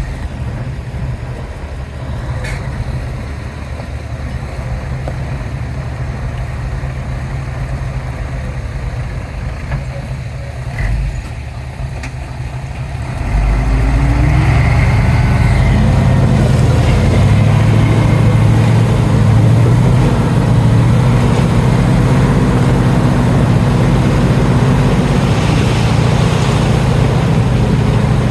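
Heavy diesel construction-machine engine running steadily. About halfway through it rises sharply and keeps working hard under load, louder, its pitch wavering.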